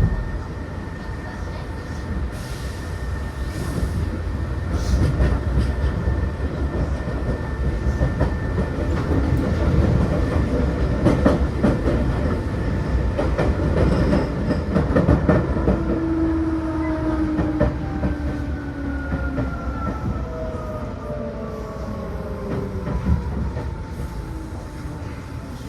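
Onboard running sound of a Seibu New 2000 series electric commuter train: wheels rumbling and clicking over rail joints under a steady whine. From about sixteen seconds in, several whining tones fall steadily in pitch as the train slows.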